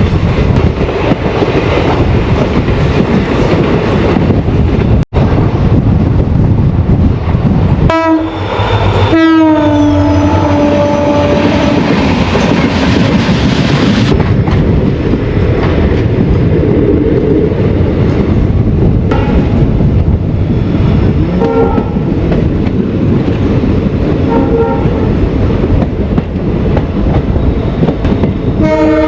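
Passenger train running at speed, with loud, steady wheel and wind noise. About eight seconds in a train horn sounds for a few seconds, its pitch falling, and shorter horn-like tones come again near the end.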